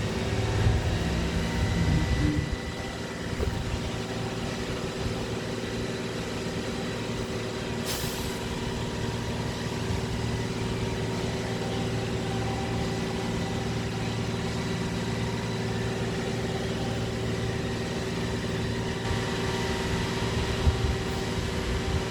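Steady mechanical hum of a running motor or engine, with several steady tones. Some irregular handling noise in the first couple of seconds and a brief hiss about eight seconds in.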